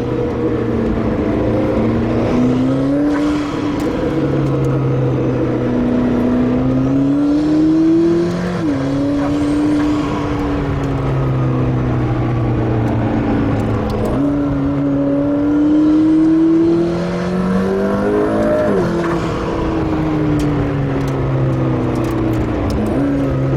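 McLaren P1's twin-turbo V8 accelerating through the gears, its pitch climbing slowly and dropping sharply at each of about five upshifts.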